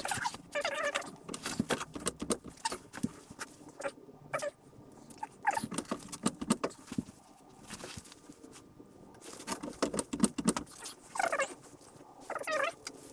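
A jack being worked under a car's rear suspension: irregular clicks and metallic knocks with short squeaks, the squeaks clearest near the end.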